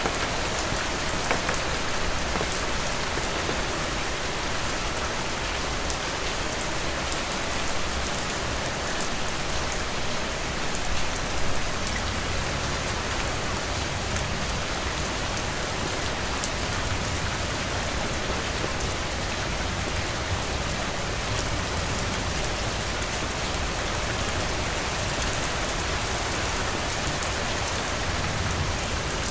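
Heavy rain falling steadily on a roof: a dense, even hiss of rain with countless small drop ticks.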